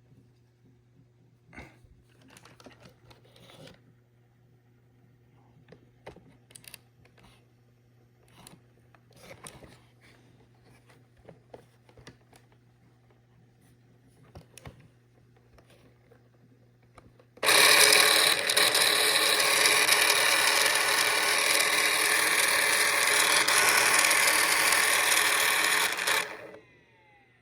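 Light handling clicks and knocks. About 17 seconds in, an ECOVACS Deebot X1 robot vacuum's motor starts with a loud, even rushing noise that runs about nine seconds, then cuts off and briefly winds down. The noise stays this loud with the brushes and mop pads removed, and the owner takes it for a fault in the machine.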